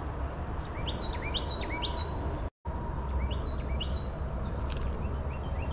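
A songbird singing repeated series of rising whistled notes, each sliding up into a short held note, in groups of about three, over steady outdoor background noise with a low rumble. The sound cuts out for an instant about halfway through.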